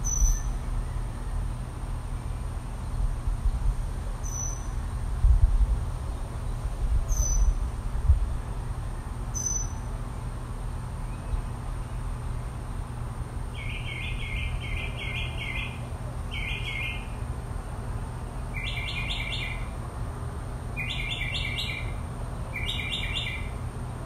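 Songbirds calling. A few short, high chirps come several seconds apart, then from about halfway on a bird gives repeated bursts of quick, rapid notes. A steady low rumble runs underneath.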